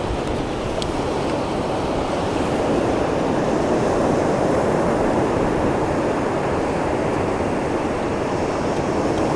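Steady rush of ocean surf breaking and washing on the beach, with wind on the microphone, growing slightly louder about three seconds in.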